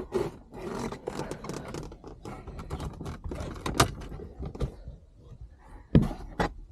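Plastic shifter console trim in a Toyota MR2 being yanked up and worked loose by hand: a run of small clicks, rattles and scraping, a sharp click about four seconds in, and two heavier knocks near the end.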